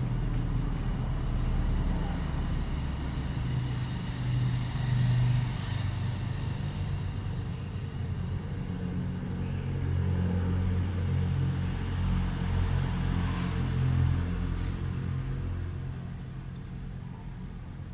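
Low, steady rumble.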